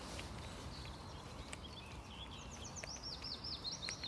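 Songbirds singing: scattered high chirps, with a fast run of about eight short falling notes two and a half to three and a half seconds in.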